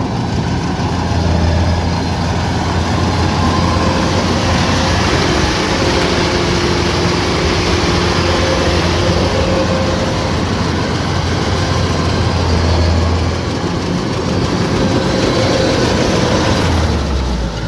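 Kubota DC-105X combine harvester running steadily at work, a loud continuous engine drone with a low hum and a broad mechanical clatter over it.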